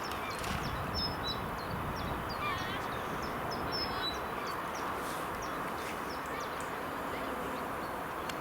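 Several small birds chirping and calling over and over, above a steady background hiss.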